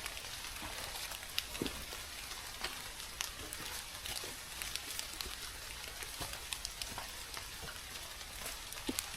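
Rain falling steadily on the surroundings: an even hiss with scattered small ticks of drops.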